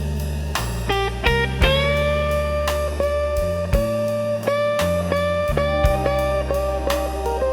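Slow blues instrumental: an electric guitar plays a lead line of sustained notes, bending up into a long held note about one and a half seconds in, over a walking bass line and a steady drum beat.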